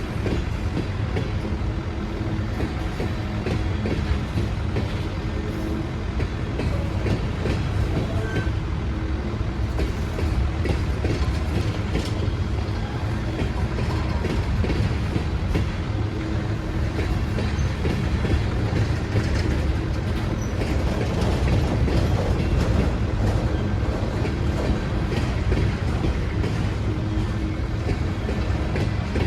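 Train rolling along the rails: a steady rumble of wheels on track with some clickety-clack over the joints.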